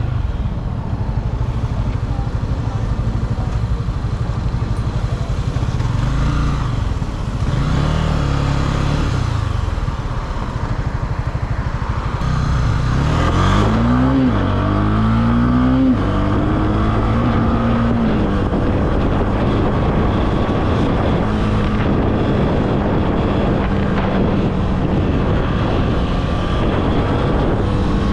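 Honda CB300F single-cylinder motorcycle engine under way. Its pitch rises and falls twice, then climbs in three quick rising sweeps about halfway through, each cut short by a gear change. After that it settles into a steady cruise.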